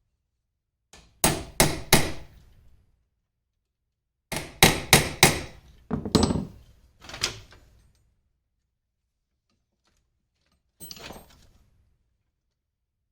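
Hammer striking an eyelet punch to peen over a small metal rivet head, the rivet mushrooming as it is hit. There are three sharp strikes, a pause, then about six more. A fainter knock comes near the end.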